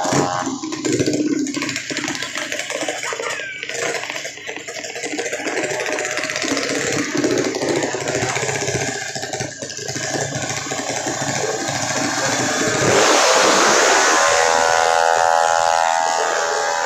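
Drag motorcycle engine running and revving, with a rough, continuous noise that surges louder about thirteen seconds in.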